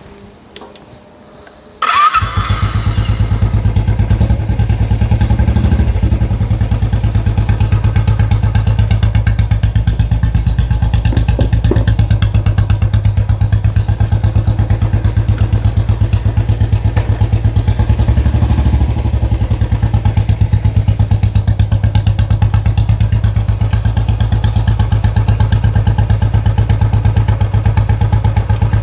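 Royal Enfield 500's single-cylinder engine catching about two seconds in and then idling steadily with an even, rapid pulse.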